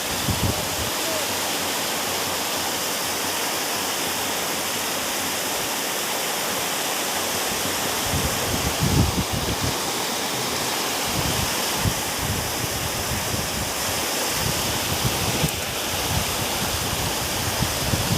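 Swollen stream in flood, its water rushing in a steady even roar, with irregular low rumbles now and then.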